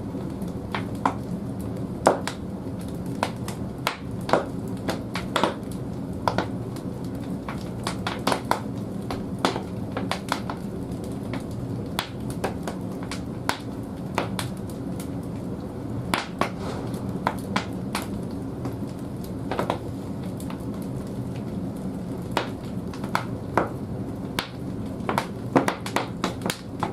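Wood burning in the firebox of a wood-fired bathhouse boiler: a steady low rumble with frequent, irregular sharp crackles and pops from the logs.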